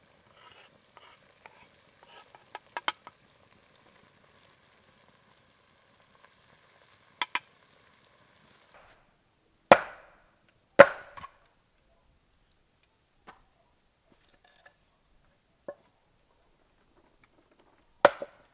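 A scattering of sharp knocks and clicks, with three louder knocks, two close together about ten and eleven seconds in and one near the end, over a faint steady hum in the first half.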